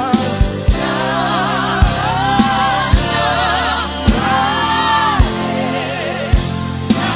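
Live gospel worship music: voices singing with a wavering vibrato over a band's sustained chords, with a kick drum hitting every half second to second.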